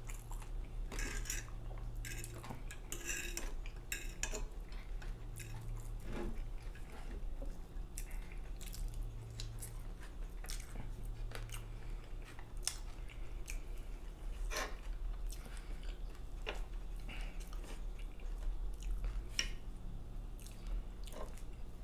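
Close-miked chewing and eating of pancakes, bacon, sausage and eggs, with cutlery clicking against a plate in scattered sharp clicks. A steady low hum runs underneath.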